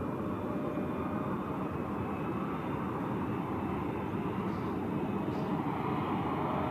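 Jet airliner's engines running with a steady noise and a faint whine.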